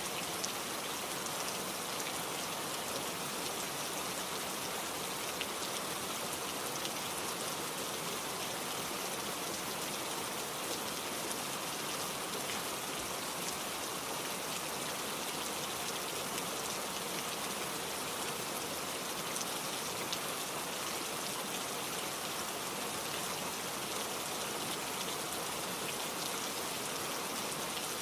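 Steady rain falling, a dense hiss of drops with fine patter on a surface.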